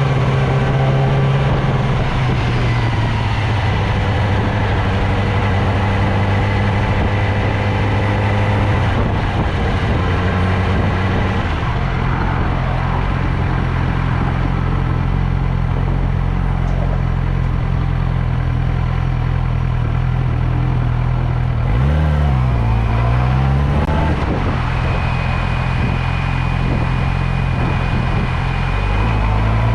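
Motorcycle engine running under way, its pitch holding steady then shifting with throttle and gear changes, with a sharp drop and rise in pitch about two-thirds of the way through.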